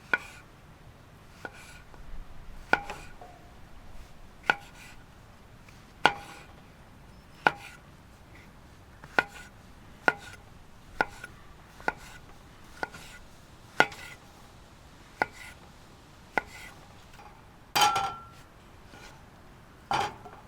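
A knife cutting food on a cutting board: slow, single cuts, each a sharp knock with a short ring, about one every second or so. The loudest, longest-ringing knock comes near the end.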